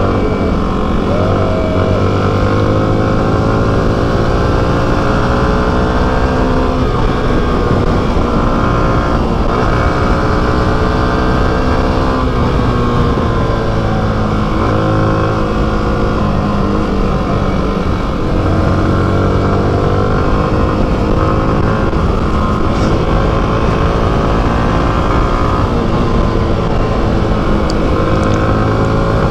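Motorcycle engine running on the move, its pitch rising and falling again and again as speed changes.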